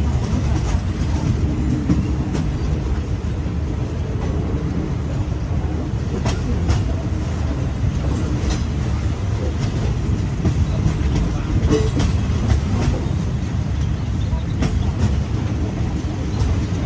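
Diesel-hauled passenger train running on the line: a steady low rumble with a few sharp clicks scattered through it.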